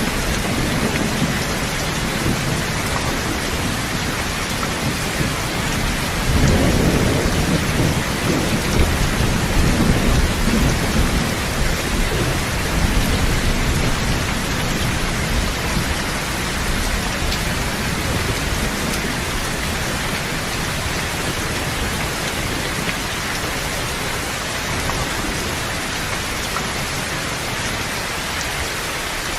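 Steady heavy rain falling in a continuous hiss. A low rumble of thunder swells about six seconds in and dies away over the next several seconds.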